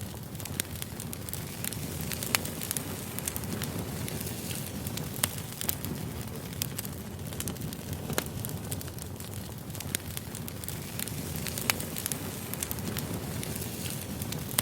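Wood campfire burning, crackling with irregular sharp pops over a steady low rumble.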